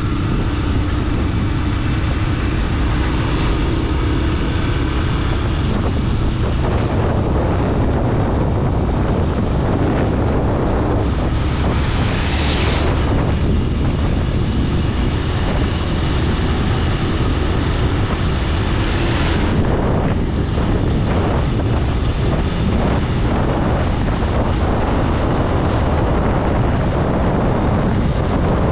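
Steady vehicle and road noise with wind rushing on the microphone while travelling along a highway. Two brief whooshes stand out, about twelve seconds in and again near twenty seconds.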